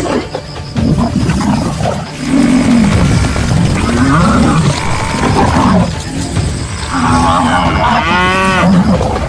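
African buffalo bellowing in distress under a lion attack: a run of low, drawn-out calls that rise and fall in pitch, with a higher, harsher bellow about eight seconds in.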